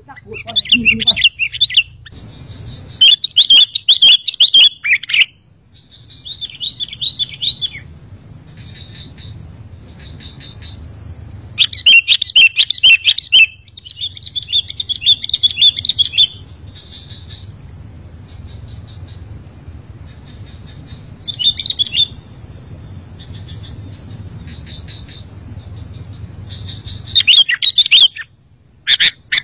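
Sooty-headed bulbul (kutilang) singing in repeated bursts of quick chirping phrases, loudest around 3 and 12 seconds in, with softer calls between. A faint steady high tone and a low hum run underneath.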